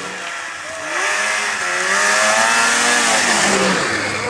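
Vehicle engine revving hard: its pitch swells up and back down over a couple of seconds, then drops away near the end, over a steady hiss.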